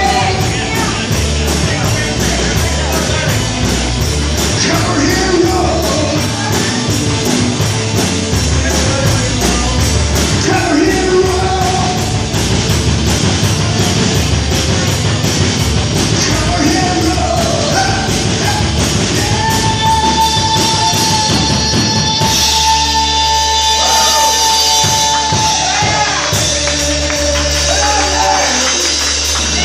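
Rock band playing an instrumental passage with drum kit, with a long held high note coming in about two-thirds of the way through.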